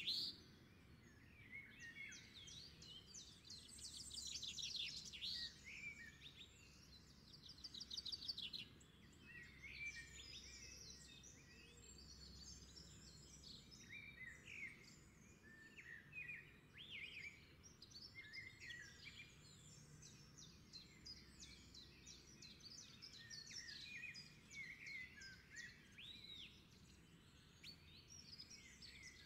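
Several birds chirping and calling over a faint background hiss, with rapid trills about four seconds in and again near eight seconds.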